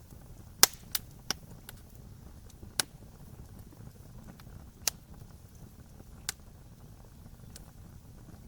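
Wood fire crackling: six sharp pops, three close together in the first second and a half and the rest spaced out, over a low steady rumble.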